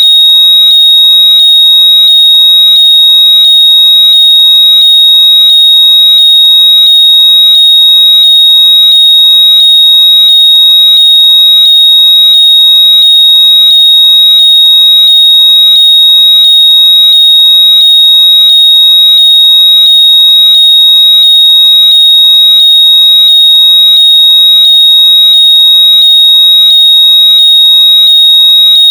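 Very loud, high-pitched electronic tone, held steady near 4 kHz, with a faint rising chirp repeating under it more than once a second. It is a locator noise played through lost earbuds or headphones so they can be heard and found.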